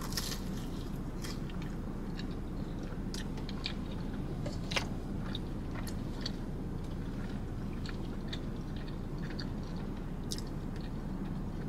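Close-up chewing of a bite of fried Southwestern egg roll: many short, scattered mouth clicks and crunches over a steady low hum.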